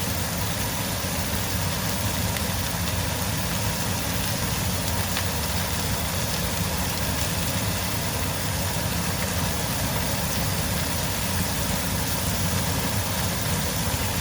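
Stove range-hood exhaust fan running with a steady hum, over the sizzle of chicken and bell peppers frying in olive oil on high heat, with a few faint pops.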